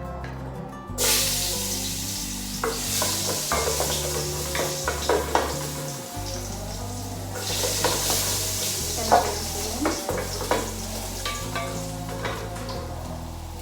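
Food sizzling in hot oil in a pan, starting suddenly about a second in as it hits the oil, with the scrape and clink of a utensil stirring it. Soft background music plays underneath.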